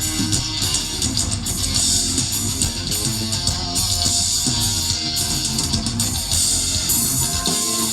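Live band playing an instrumental passage of a gospel song, guitar to the fore over a drum kit, with no singing.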